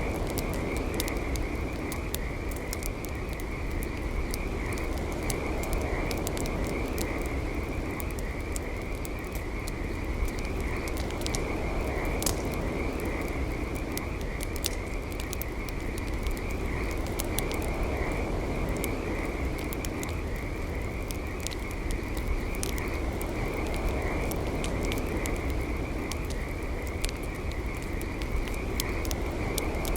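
Campfire crackling with scattered sharp pops, over a steady, high-pitched trilling chorus of frogs.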